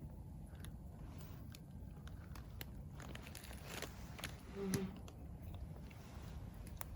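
Wood campfire burning quietly with scattered sharp crackles and pops, and a brief low hum about two-thirds of the way through.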